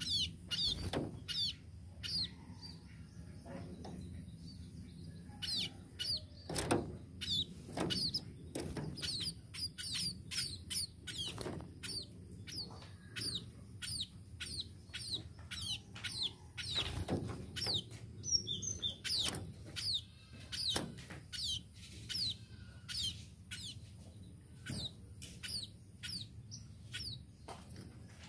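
Tame pipit (munia) chirping: short, high notes that slide downward, repeated about twice a second, with a few soft thumps mixed in.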